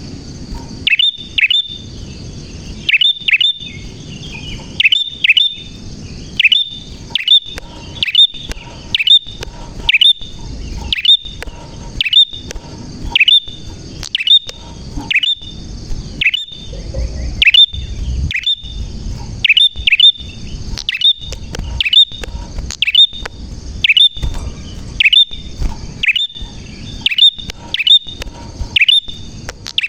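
Prinia (prenjak) calling over and over in a lively run of short, sharp chirps, about one to two calls a second.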